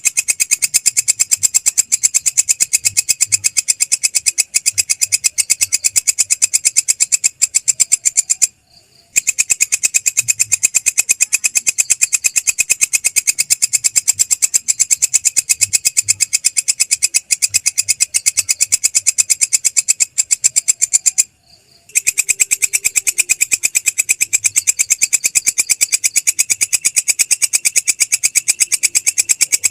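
Belalang krek, a singing grasshopper, calling in a fast, even, high-pitched train of clicking pulses, broken by two brief pauses, about a third of the way in and again about two-thirds in.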